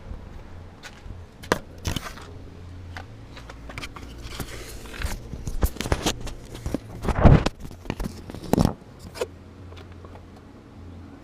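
Irregular clicks, rustles and scrapes over a faint steady low hum, loudest about seven seconds in.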